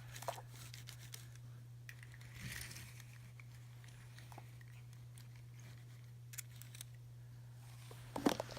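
Hands handling toy packaging: scattered small clicks and crinkling rustles, with a louder burst of crinkling and clicks near the end, over a steady low electrical hum.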